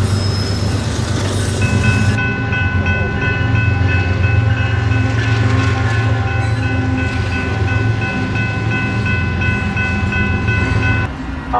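A passing train: a loud, low diesel locomotive rumble with a bell ringing over it in rapid, even strokes. The sound cuts off suddenly near the end.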